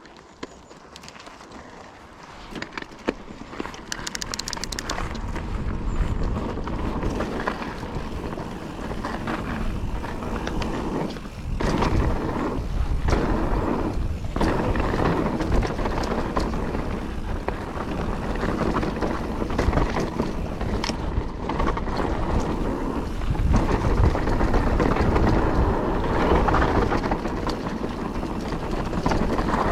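Calibre Triple B mountain bike riding fast over a dry, loose trail: tyre noise on dirt and gravel with many clattering knocks from the bike over bumps, and wind on the microphone. It builds from quiet to loud over the first several seconds as speed picks up.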